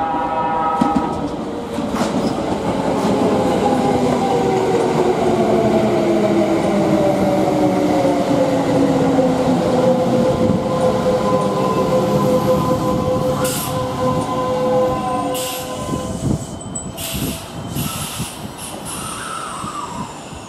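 Kintetsu limited express electric train pulling in and braking to a stop, its motor whine falling steadily in pitch as it slows over the wheel and rail rumble. Near the end come a few short hisses as it comes to a halt.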